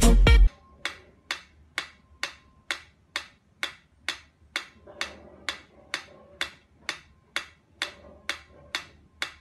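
Pyramid-shaped mechanical metronome ticking steadily, about two and a half ticks a second, after a brief end of loud music.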